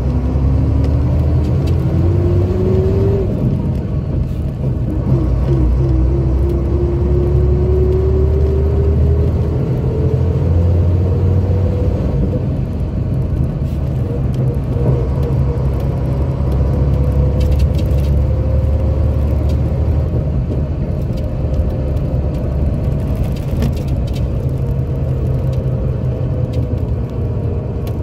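Scania K82SR coach under way: its diesel engine rumbles low beneath a whine that rises as the coach accelerates. The whine drops about three seconds in, as at a gear change, climbs again over the next several seconds, then holds steady at cruising speed.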